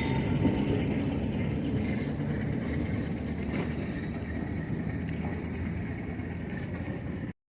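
Passenger train's low rumble fading steadily as it moves away, cut off abruptly near the end.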